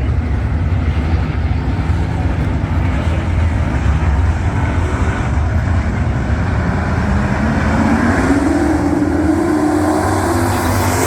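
Dirt-track race trucks' engines running hard, a deep rumble through the first half. Over the last few seconds one engine rises steadily in pitch as it speeds up.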